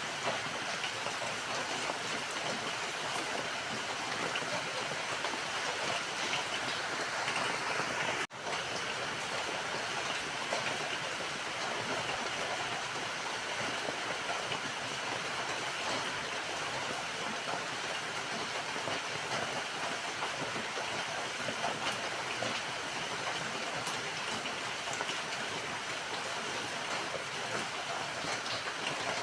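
Steady rain falling, an even hiss of drops with no pattern, broken once by a split-second gap about eight seconds in.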